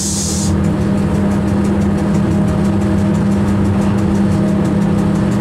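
A train running, heard from inside the driver's cab: a steady low hum and rumble from the running gear and wheels on the rails. A high hiss cuts off about half a second in.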